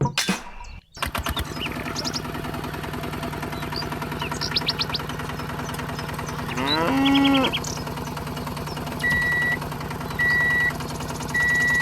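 A small electric motor hums steadily. About seven seconds in, a cow moos once, and near the end there are three short high electronic beeps.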